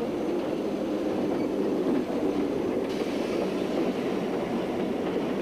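Train rolling along the track with a steady, even running noise.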